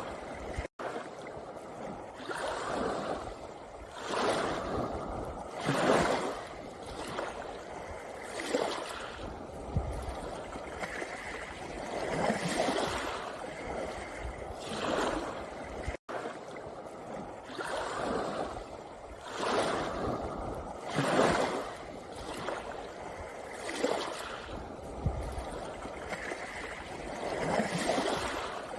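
Small sea waves washing in and out over a pebble beach, swelling every couple of seconds. The sound cuts out for an instant twice.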